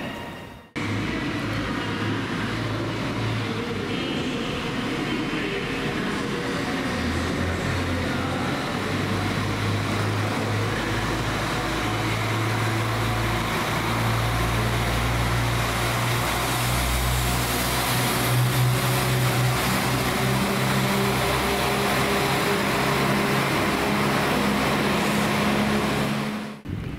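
A train running through a station: a steady low hum that shifts in steps, under a continuous wash of wheel and rail noise that is loudest around the middle and cuts off suddenly near the end.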